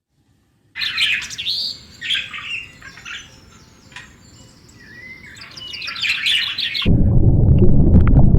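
Small birds chirping and trilling, several short high calls overlapping, after about a second of silence. Near the end the chirping gives way to a sudden loud, low rushing noise.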